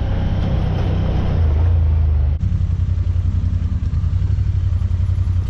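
Side-by-side UTV engine running steadily under way off-road, with an abrupt cut about two and a half seconds in to another stretch of the same engine sound.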